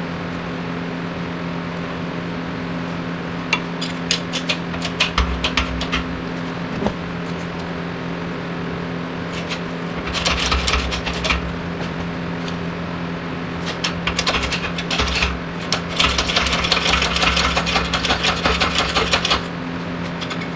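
Workshop sounds: a steady hum under several bursts of rapid metallic clicking and rattling with low knocks, the longest near the end, from tools working on a wheel-bearing press job.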